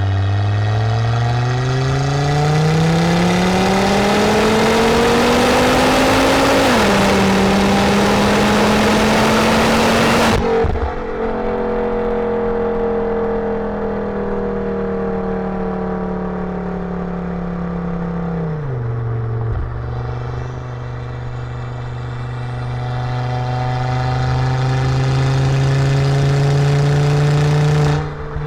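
2006 Volvo S60R's turbocharged five-cylinder engine through a full custom Eurosport exhaust and 3-inch downpipe, accelerating with the note climbing steadily and dropping at a shift about six and a half seconds in. About ten seconds in the sound changes abruptly to a quieter, steady engine note, which drops again near twenty seconds and then rises slowly.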